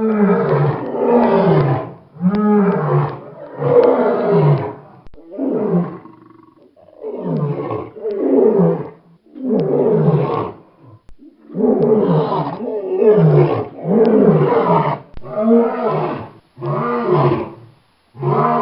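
Lion roaring in a long series of deep calls, about a dozen, each roughly a second long and falling in pitch, with short pauses between.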